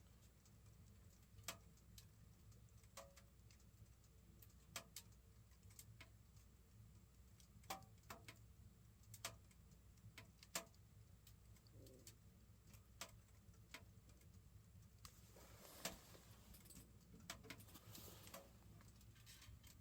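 Faint, irregular sharp crackles and ticks from a fireplace-style three-sided wood stove burning, one every second or two, with a soft rustle about three-quarters of the way through.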